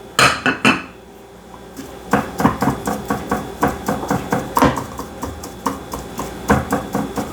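Kitchen handling sounds: a few sharp clinks early in the first second, then a run of light taps and knocks against dishware from about two seconds in, as raw chicken thighs are seasoned and handled in a dish.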